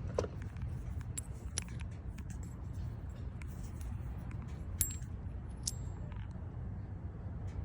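BMW engine idling as a low steady hum, with a few irregular light metallic clinks over it.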